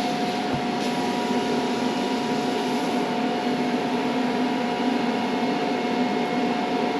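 Steady mechanical drone with a constant high whine and a low hum, unchanged throughout.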